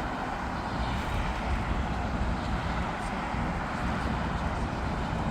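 Jet airliner engines running, a steady rumbling roar that swells slightly about a second in and then holds.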